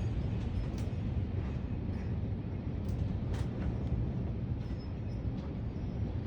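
Gusty thunderstorm wind making a steady low rumble, with a few sharp ticks of something striking near the microphone, mostly between three and four seconds in.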